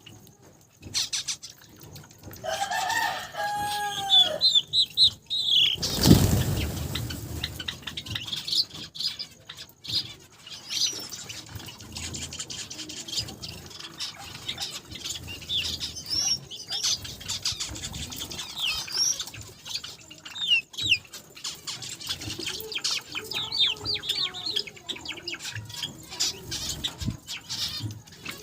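Small aviary finches (Java sparrows, zebra, Gouldian and Bengalese finches) chirping and fluttering, with many short high chirps throughout. About three seconds in there is a lower drawn-out call bending in pitch, and about six seconds in a sudden loud rush that fades within half a second.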